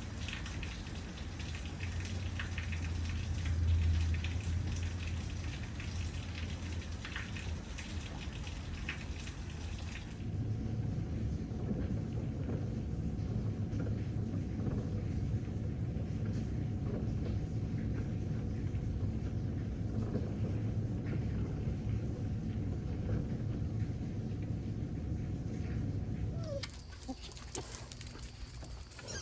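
Thunderstorm: heavy rain falling with thunder rumbling, loudest about four seconds in. About ten seconds in the sound turns muffled and deep, the rain's hiss gone and a steady low rumble left, and it drops quieter near the end.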